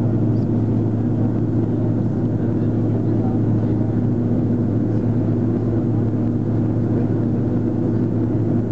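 Steady cabin noise inside an Airbus A330-300 airliner in flight: the engines' steady low drone with a few steady higher tones over a haze of rushing air.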